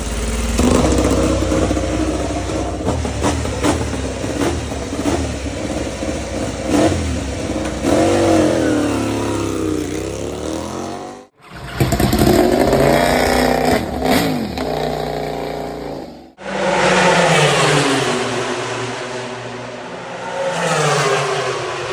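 MotoGP prototype racing motorcycle engines revving hard at speed, pitch climbing under acceleration and dropping through gearchanges and as bikes go by. The sound breaks off abruptly twice as one clip gives way to another.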